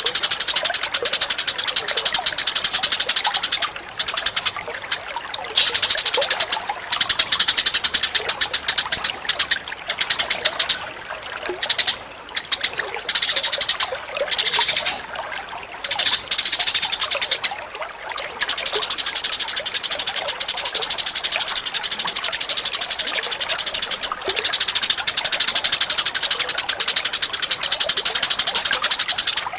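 Recorded songbird calls used for bird tutoring: a loud, very fast, high-pitched chatter in long runs broken by short pauses.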